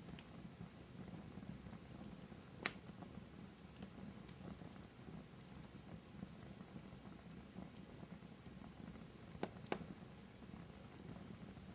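Fireplace fire crackling faintly over a soft low rumble, with three sharp pops: one about two and a half seconds in and two close together near the end.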